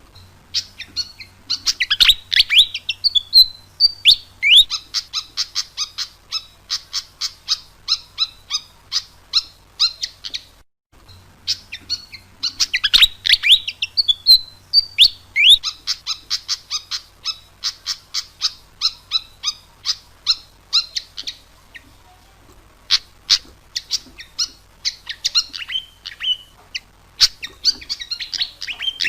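A fantail singing: quick runs of high chirps and sweeping squeaky notes. There is a short pause about ten seconds in, then the song starts again.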